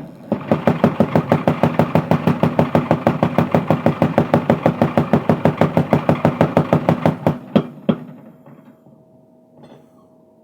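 Mechanical power hammer pounding hot steel bar stock into a crowbar: a fast, even run of blows, about seven a second over the machine's hum, for some seven seconds, then two single blows and it stops.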